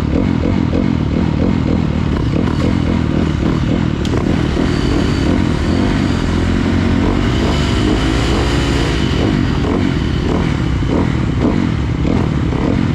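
Motocross dirt bike engine running hard, with its pitch rising and falling around the middle as the throttle is worked.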